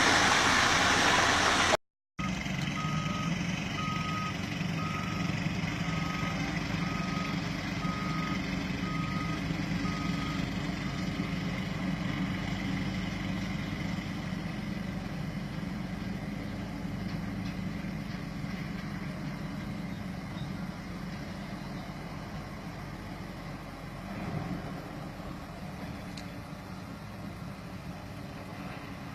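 Heavy Scania coal truck running steadily, with a reversing alarm beeping about once a second, eight times, before stopping; the truck sound then slowly fades. A louder stretch of noise cuts off abruptly about two seconds in.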